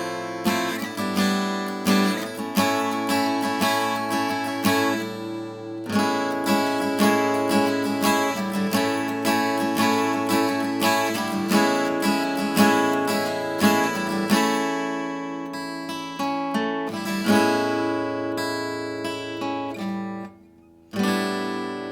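Solid rosewood acoustic guitar being played, a steady run of strummed chords and picked notes ringing out, with a pause of about a second near the end before the playing starts again.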